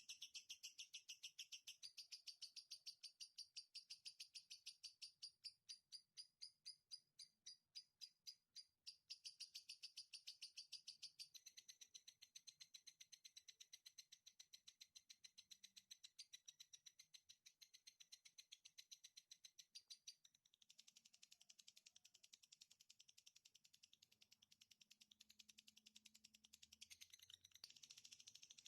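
Recorded songbird chirping in a fast, evenly repeated high-pitched series, faint, played as a masteran song-tutor track for cage birds. The pattern shifts a few times, with a thinner stretch of separate chirps near the start and a change about two-thirds of the way in.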